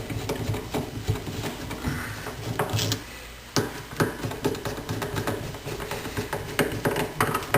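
Irregular light clicks and knocks of small metal and plastic faucet parts being handled during reassembly, with a sharper knock about three and a half seconds in.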